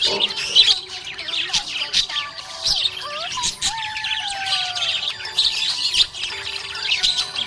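Budgerigars chirping and warbling in dense, overlapping calls, with a few sliding whistled notes near the middle.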